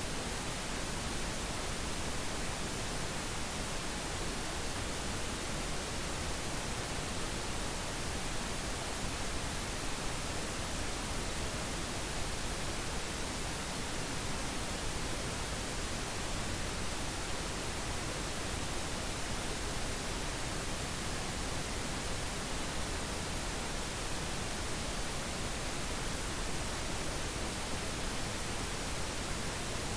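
Steady synthetic pink noise: an even, unchanging hiss spread across all pitches, without any tones or events.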